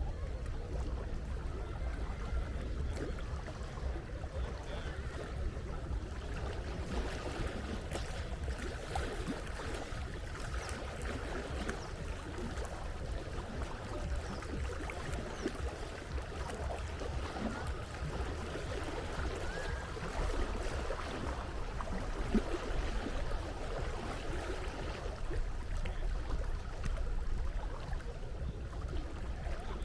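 Sea water lapping and splashing at a steady level, over a constant low rumble.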